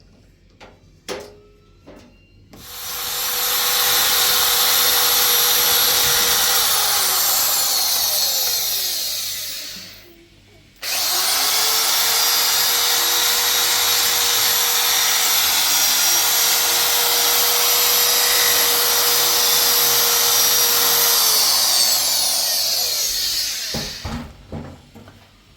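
Handheld electric power tool running in two long bursts. The first lasts about seven seconds; after a short pause the second starts abruptly and runs about thirteen seconds. Each time the motor winds down in pitch when it is released, and a few light clicks come just before the first run.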